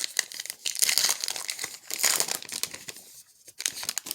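A baseball card pack's wrapper being torn open and crinkled in the hands, a dense crackle that is loudest around one and two seconds in and dies away near the end.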